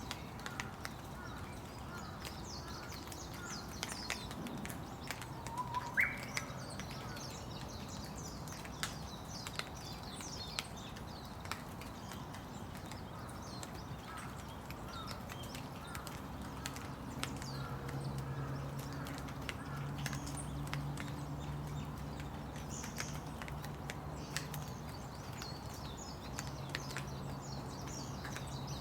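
Rain falling, with many sharp drips ticking, and small birds chirping throughout. A low steady hum comes in about halfway through.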